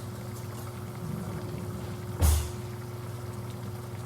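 Steady low hum, with one sudden short thump about two seconds in.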